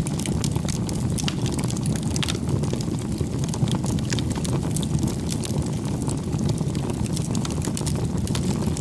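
Campfire burning: a steady low rushing sound with frequent small crackles and pops from the burning wood.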